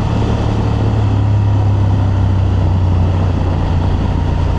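Honda Transalp's 755 cc parallel-twin engine running at a steady cruise, a constant low hum, with wind noise on the microphone.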